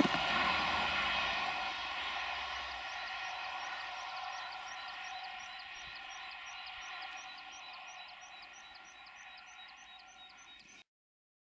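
Class 158 diesel multiple unit running, its engine drone fading steadily as it draws away. The sound cuts off abruptly near the end.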